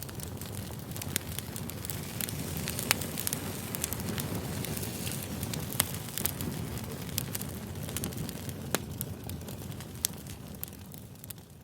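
Campfire crackling: a steady low rumble of burning wood with irregular sharp pops and snaps, fading out near the end.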